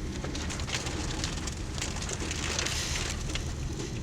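Storm wind and rain: a steady low rumble with rain crackling and pattering throughout, and a rush of hiss that swells a little past the middle.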